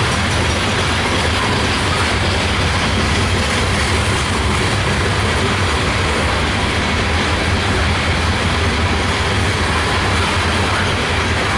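Loaded CSX coal train's hopper cars rolling past at steady speed, with a continuous rumble and rattle of wheels on the rails.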